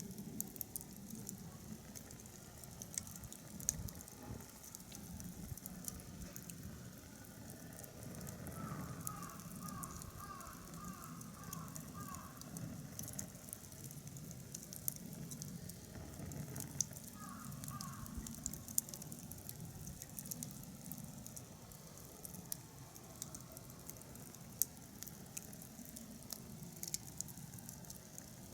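Firewood burning in a wood-fire pit, crackling with many small, irregular pops over a low, steady rush of flame.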